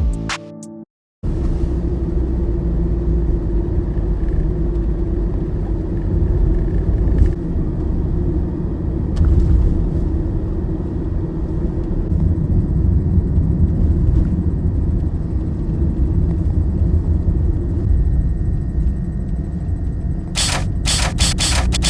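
Steady low rumble with a faint steady hum in it. A few sharp clicks or knocks come near the end. Music cuts off about a second in.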